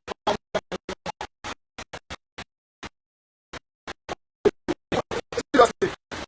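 Choppy, broken-up audio: short fragments of sound, several a second, cut apart by dead silence, the sign of a dropping-out recording or stream. The fragments thin out about two seconds in and come fast and loud again near the end.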